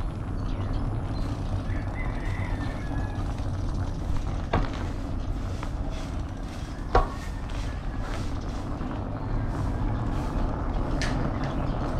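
Steady low rumble of wind and road noise while riding a bicycle, broken by a couple of sharp knocks or rattles about four and a half and seven seconds in.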